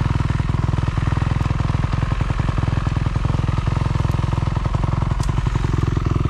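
Motorcycle engine running steadily close to the microphone, with a rapid, even firing pulse.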